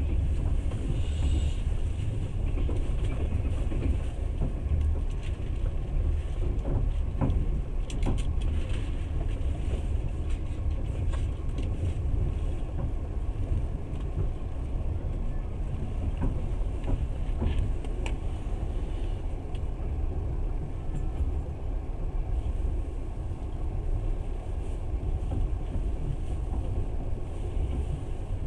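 Passenger train running along the track, heard from inside the carriage: a steady low rumble of wheels on rails, with scattered clicks and knocks.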